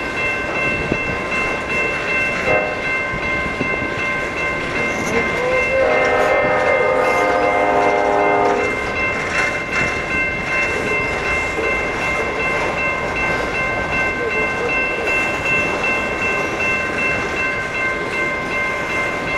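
Coal hopper cars of a freight train rolling past, with steady rail noise and a continuous high squeal in several steady tones. About six seconds in, a train horn sounds for nearly three seconds.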